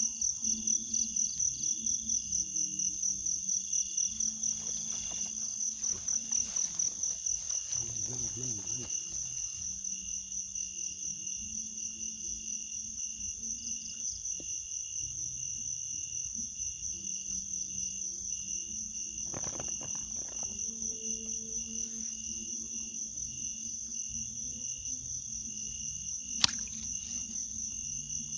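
Crickets or other insects chirping in a dense, steady, high-pitched trill that pulses several times a second. Brief rustling is heard around 8 and 20 seconds in, and there is one sharp click near the end.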